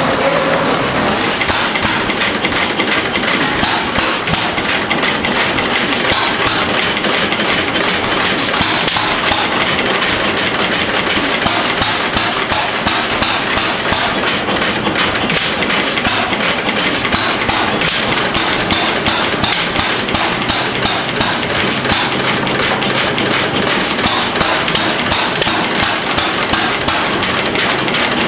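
Antique stationary engine running with a rapid, steady mechanical clatter.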